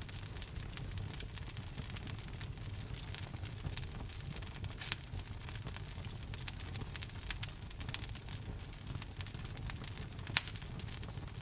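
Wood logs burning in a fireplace, crackling with many small irregular pops over a steady low rumble. Two sharper pops stand out, about five seconds in and near the end.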